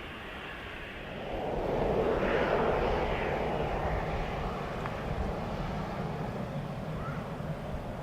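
Jet airliner engines passing close by: a broad rumble and roar that swells quickly about a second in, peaks, then slowly fades.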